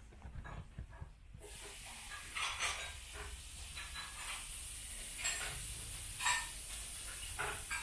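A steady hiss begins abruptly about a second and a half in, with scattered soft clicks and knocks over it.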